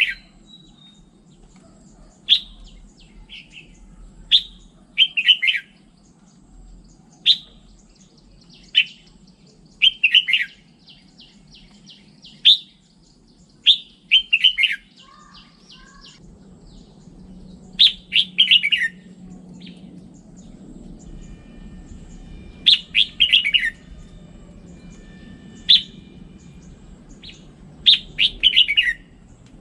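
Red-whiskered bulbul singing: short, quick phrases of sharp falling notes, repeated with gaps of one to a few seconds.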